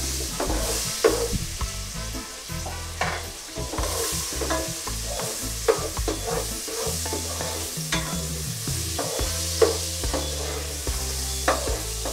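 Sliced onions, garlic and hot pepper sizzling in melted butter in a pot, stirred with a spatula that scrapes the pan in irregular strokes every second or two.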